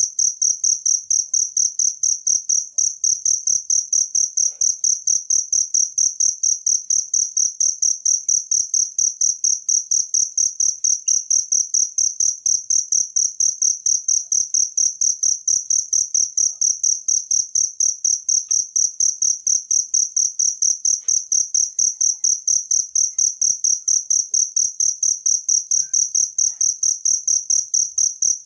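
Cricket chirping close up: one high-pitched note pulsed in a fast, even rhythm, steady and without a break.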